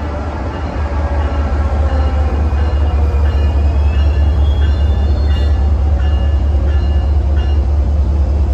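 MBTA commuter rail train hauled by an HSP46 diesel locomotive pulling into a station and slowing to a stop. The locomotive's diesel engine gives a steady low drone that grows louder as it comes in, with thin high squeals from the wheels or brakes over it.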